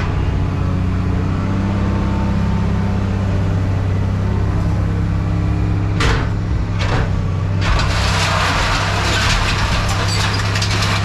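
A heavy machine's engine running steadily with a low hum. Two short noisy bursts come about six and seven seconds in, and from about eight seconds in a dense, harsh clatter joins it.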